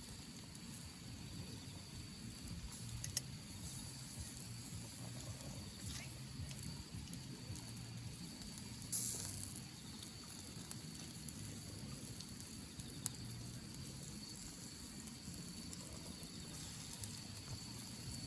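Campfire crackling under a faint steady hiss, with a few sharp pops; the loudest is a brief burst about nine seconds in.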